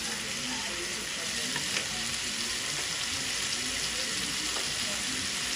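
Chicken pieces with tomato, onion and garlic sizzling steadily in hot oil in a wok.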